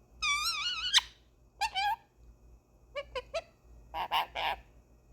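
A pet parrot calling: one warbling call with a wavering pitch near the start, followed by several short squeaks and chirps.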